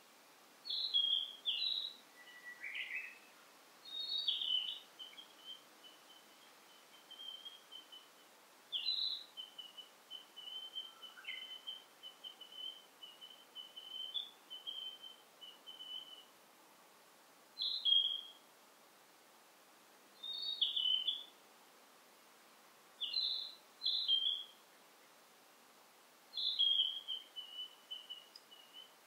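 Wild songbirds singing in forest: a short, high, falling phrase repeats every few seconds, strings of rapid high notes run between the phrases, and a lower call comes about two seconds in.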